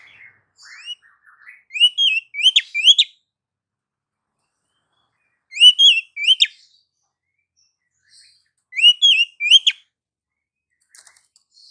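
Female oriental magpie-robin (kacer) whistling: three short phrases of quick rising notes, a few seconds apart, with faint clicks near the end.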